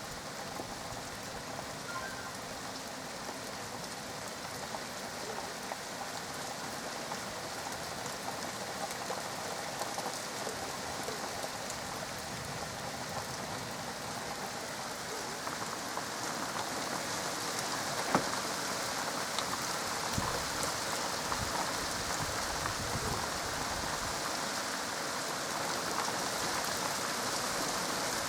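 Steady rain falling, growing gradually heavier, with one sharp tap about two-thirds of the way through.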